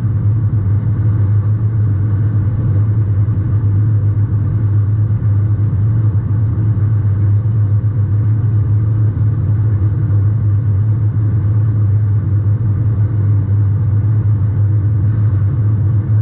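Compact demolition derby car's engine running steadily with a low, even drone, heard from a GoPro mounted at the rear of the car.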